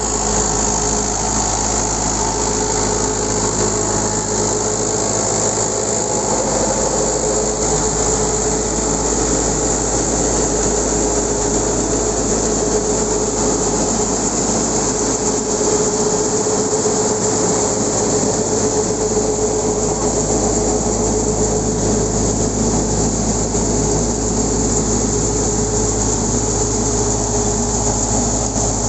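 Tractor engine running steadily at an even speed, a constant low mechanical drone with a steady whine over it.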